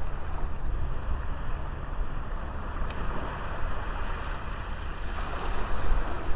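Small sea waves breaking and washing on a beach, the wash swelling about five seconds in, with wind buffeting the microphone.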